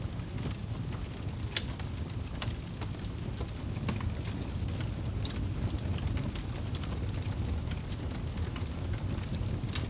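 Wood fire burning in a fireplace: a steady low rumble of the flames with scattered sharp crackles and pops of the firewood, one louder pop about a second and a half in.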